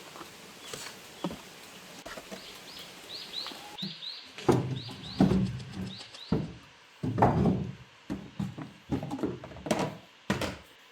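A small bird chirping over and over in short rising notes, alongside a series of irregular heavy knocks and thuds.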